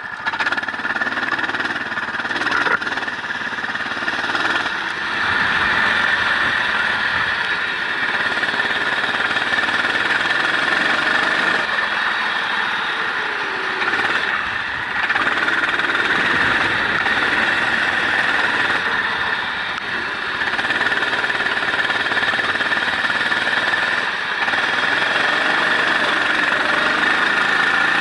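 Onboard sound of a vehicle lapping a wet race circuit at speed: the engine revs rise and fall through the gears, dipping briefly every few seconds, over a steady rush of wind and road noise.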